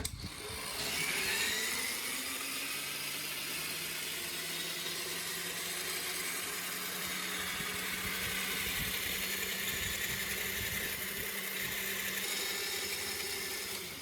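Motorcycle starter motor driving a homemade electric bicycle: it starts suddenly with a rising whine as it spins up, runs steadily, then cuts off near the end.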